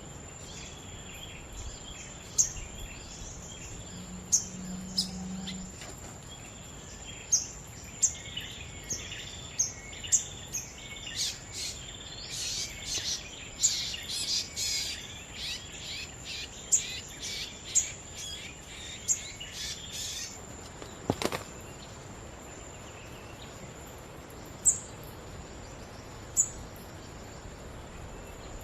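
Small birds chirping: a string of sharp single chirps about once a second, thickening into busy twittering through the middle, over a steady high insect drone. A single sharp click about two-thirds of the way through.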